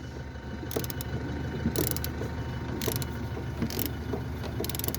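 Ratchet wrench clicking in short bursts about once a second as a headlight mounting bolt is driven in, over a steady low hum.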